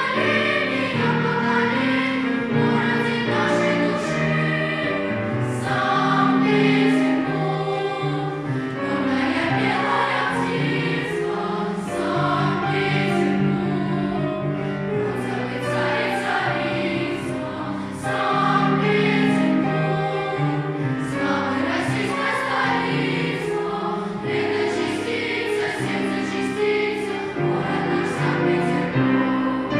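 A choir singing a song, the voices running on without a break.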